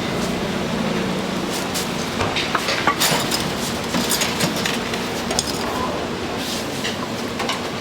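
Busy food-stall background noise with scattered clinks and knocks of utensils and dishes.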